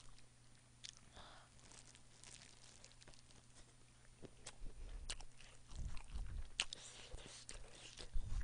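Close-miked chewing and biting of spicy chicken feet, a string of small wet clicks and smacks from the mouth. A few dull low thumps come about six and eight seconds in.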